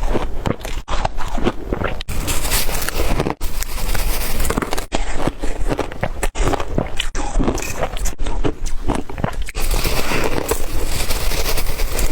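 Close-miked chewing and biting of crunchy food: a dense run of crackling crunches, broken by short gaps every second or two.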